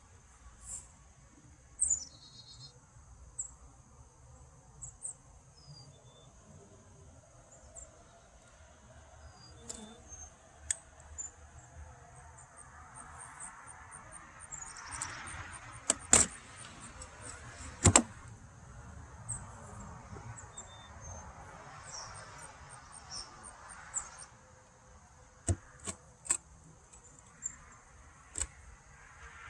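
Wooden beehive boxes and frames being worked apart: scattered sharp clicks and knocks, two of them loud, and stretches of scraping. A steady high insect trill runs behind.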